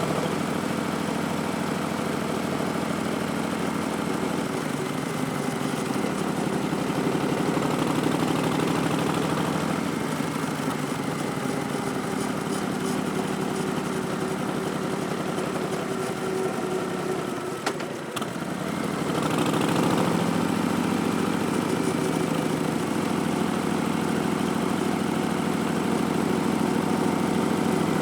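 Harley-Davidson Street Bob's V-twin running through V&H Twin Slash slip-on mufflers and an Arlen Ness Big Sucker air cleaner, a steady low exhaust note. About two-thirds of the way in the note dips briefly, then comes back louder.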